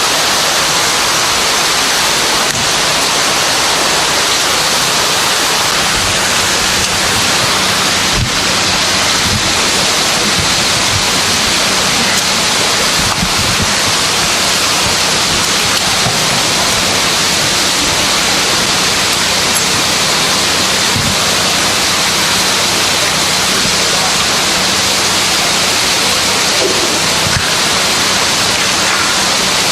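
Steady, loud rushing noise with no distinct events, and a faint low hum underneath.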